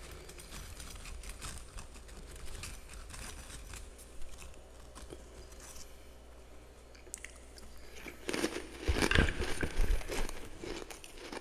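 Close-up chewing of powdery frost: soft, dense crunching for most of the time, then a louder run of crunches near the end as a fresh mouthful is bitten and chewed.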